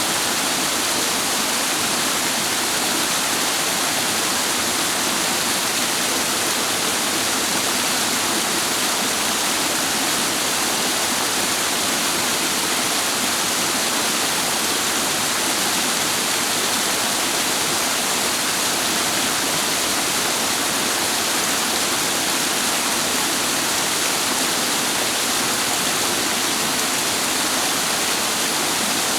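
Mountain stream water rushing in a steady, unbroken wash of noise.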